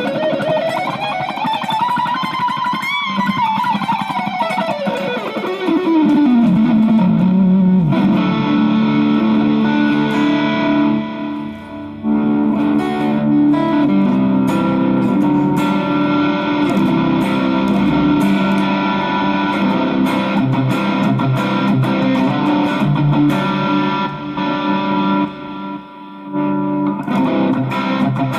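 Electric guitar with a treble-bleed circuit on its volume pot, played through an effects unit. Over the first several seconds its pitch glides smoothly up and back down. After that it plays sustained chords and notes, with two short breaks.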